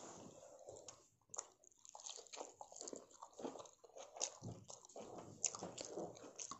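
A person chewing and biting food, heard faintly as irregular short clicks of the mouth.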